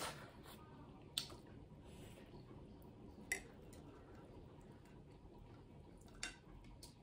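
Eating sounds: four sharp, wet mouth smacks while chewing a mouthful of rice, spaced one to three seconds apart.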